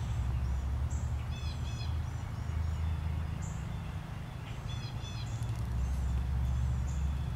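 Birds chirping outdoors in a few short runs of quick, repeated high notes, over a steady low rumble.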